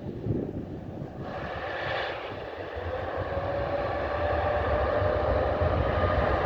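Boeing 787 twin-engine jet airliner at takeoff power: a jet roar that swells about a second in and keeps getting louder, with a low rumble and a whining tone that rises slowly in pitch.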